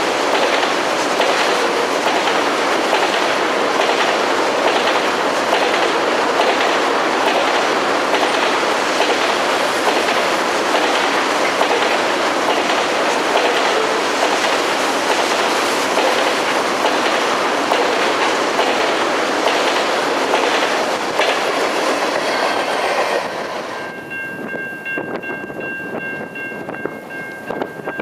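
Freight train rolling past at speed, its wheels clicking in a steady rhythm over rail joints. About 24 s in, the sound drops sharply in level and a few steady high tones sound together until the end.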